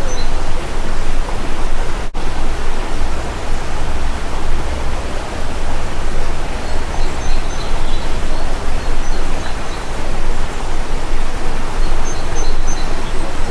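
Loud, even rushing noise, with a few faint high bird chirps about seven and twelve seconds in.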